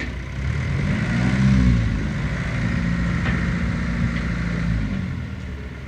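Engine of a fire-damaged tractor running. Its pitch rises and falls about a second in, then it runs steady, dropping away near the end.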